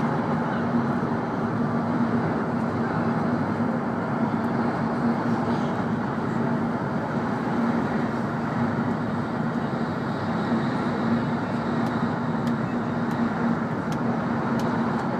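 Cabin running noise of a W7 series Hokuriku Shinkansen train at speed: a steady rush of wheel and air noise with a constant low hum. A faint high whine joins in about two-thirds of the way through.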